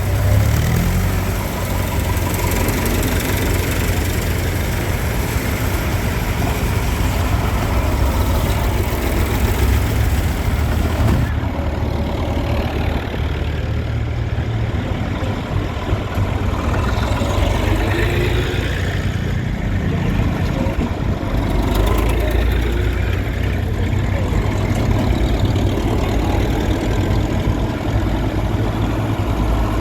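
Tractor engines running steadily with a deep, low rumble. About a third of the way in the sound suddenly turns duller.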